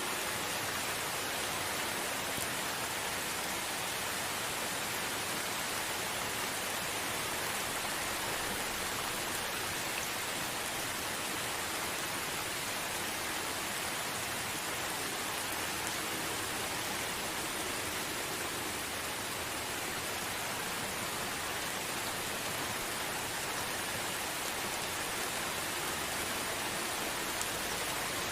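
Gentle steady rain falling, a soft even hiss with no thunder.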